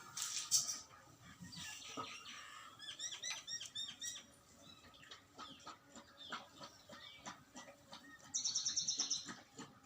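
Small birds chirping: a run of short high chirps about three seconds in, and a fast rapid trill of high notes near the end, with scattered faint clicks.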